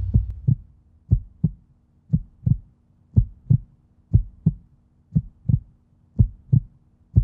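Heartbeat sound effect: paired lub-dub thumps, about one pair a second, steady and even, over a faint low hum. It begins as the tail of a loud booming hit fades out in the first half second.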